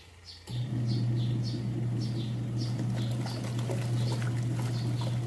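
A washing machine's motor switches on with a steady low hum about half a second in and keeps running. Over it a small bird chirps repeatedly, two or three short falling chirps a second.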